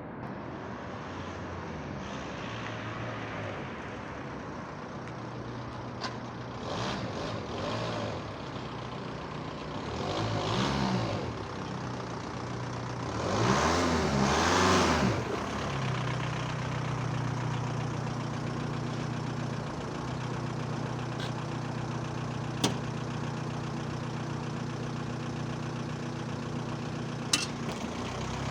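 Seat Leon/Toledo mk1's 1.9 TDI 110 hp four-cylinder diesel blipped up in three short revs, the third the longest and loudest, then settling to a steady idle.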